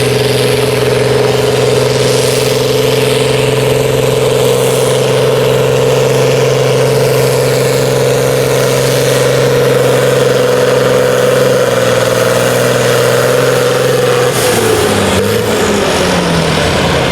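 Farm-stock diesel tractor engine running at a steady, high speed under load as it pulls the sled. About fourteen seconds in it throttles back and its pitch falls.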